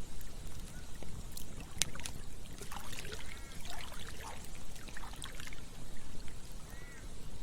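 Campfire crackling, with several sharp pops scattered through, over a trickling stream that gurgles now and then.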